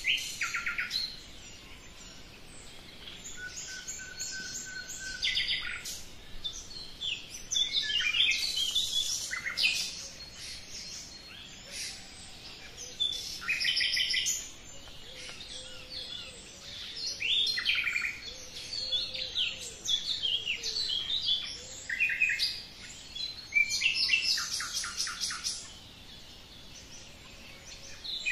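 Several small birds singing and calling together: overlapping high chirps, short trills and quick runs of repeated notes, coming in spells with brief lulls between them.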